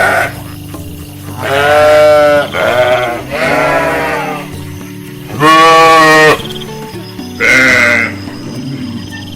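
Sheep bleating five times in a row, each bleat half a second to a second long, the loudest about halfway through, over steady background music.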